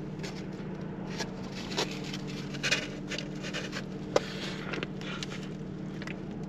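A man eating a cheeseburger: chewing and mouth noises with scattered soft clicks and rustles, over a steady low hum in a car cabin.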